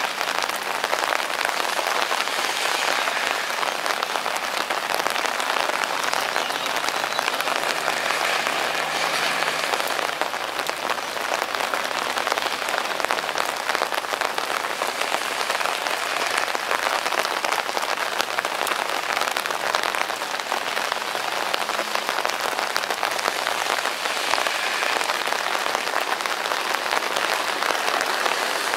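Steady rain falling, an even patter of many small drops.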